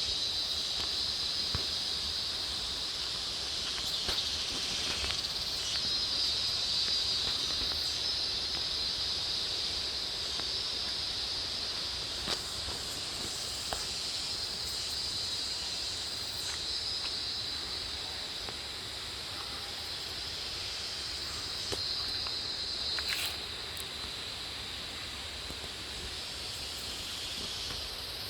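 A steady high-pitched drone of forest insects, with a fainter even rushing noise of falling water beneath it.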